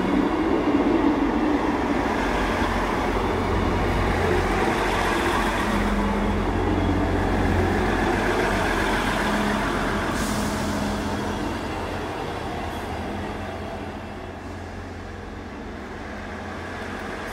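South Western Railway diesel multiple unit departing, its engines humming and wheels rumbling along the rails, growing fainter over the last few seconds as it pulls away.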